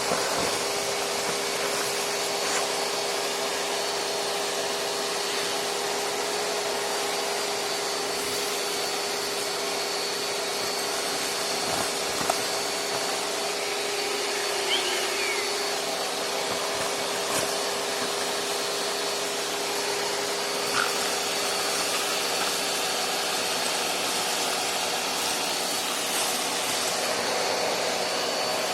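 Several vacuum cleaners running together with a steady motor whine and hum, with a few brief clicks partway through.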